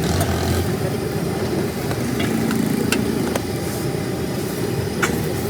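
Motor vehicle engines running in passing road traffic, a steady low rumble, with a few sharp clicks and knocks over it.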